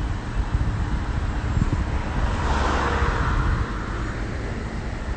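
Street traffic noise: a vehicle passes, its noise swelling about halfway through and then fading, over a steady low rumble.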